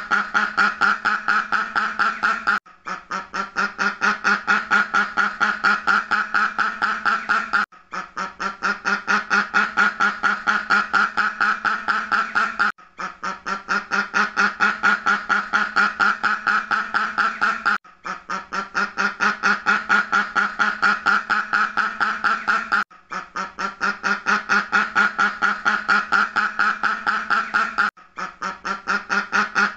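A duck quacking in rapid, evenly spaced quacks, about five a second. The same stretch of quacking repeats about every five seconds with a brief break between repeats, a looped recording.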